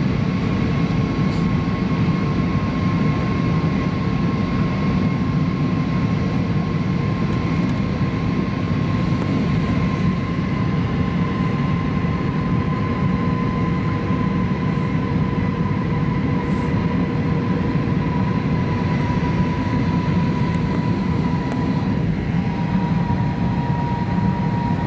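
Airbus A320 cabin noise on approach: a steady rumble of airflow and engines with a faint engine whine whose pitch drifts slowly lower.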